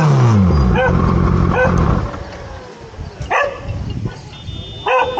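Kawasaki Z900's inline-four engine, its revs falling back after a blip, then running until it drops away about two seconds in. A dog barks several times over it, with a louder bark near the end.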